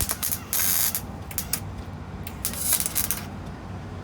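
Ratchet wrench working on the exhaust fittings: two short spells of rapid ratcheting, about half a second in and again near three seconds in, with a few scattered clicks between.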